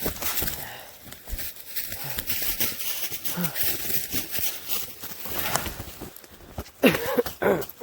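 Irregular rustling and crunching in dry leaves and brush, with a short vocal sound near the end.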